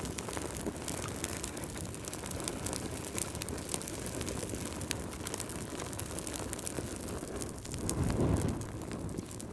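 Fireplace fire crackling: a steady low rush of flames with many small sharp pops, swelling briefly near the end.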